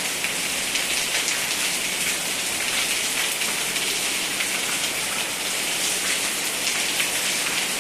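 Steady heavy rain falling on hard surfaces: an even hiss packed with the patter of individual drops.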